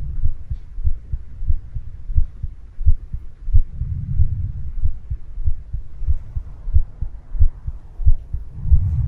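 Wind buffeting the microphone in storm gusts: a low rumble with irregular thumps and swells.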